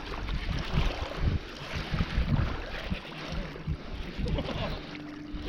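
Wind buffeting the microphone in uneven low gusts. A faint steady hum comes in near the end.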